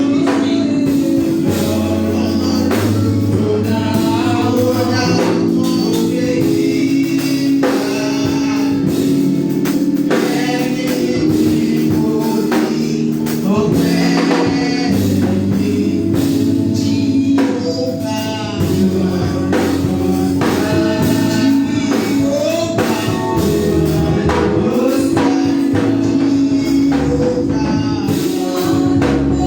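Live gospel praise music: singers with a band, tambourine shaking along to the beat.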